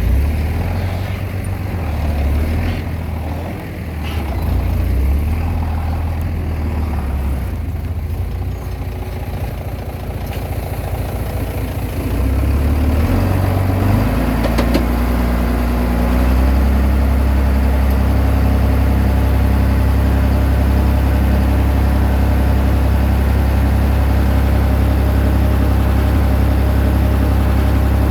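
Komatsu D20P bulldozer's diesel engine running under varying load, its low note shifting unevenly, then settling into a steady, louder drone from a little past halfway. A brief clank is heard about halfway in.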